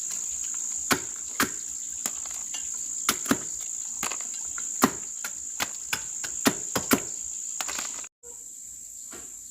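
Steady high-pitched insect chorus, with irregular sharp knocks over it, about a dozen in eight seconds. The sound cuts out for a moment near the end, and afterwards the chorus goes on with few knocks.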